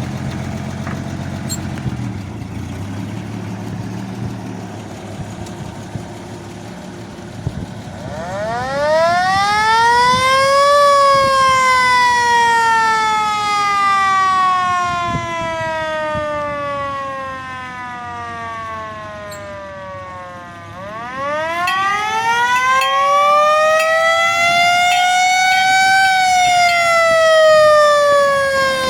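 A 1938 fire truck's engine idles, then its siren winds up, peaks and slowly winds down, twice: two rising-and-falling wails.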